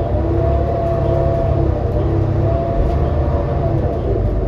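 2018 New Flyer XD40 diesel transit bus heard from inside while under way: a steady low engine rumble with several wavering whining tones above it. This coach is known for sounding messed up.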